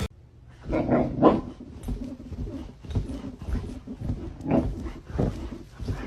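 A dog making a run of short, irregular vocal sounds.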